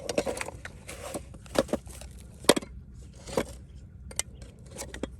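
Irregular scrapes and knocks, about half a dozen, spread unevenly over a few seconds.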